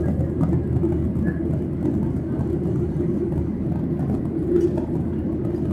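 Steady cabin noise of a Boeing 737-800 in flight: the even, low rush of airflow and its CFM56-7B turbofan engines, unchanging throughout.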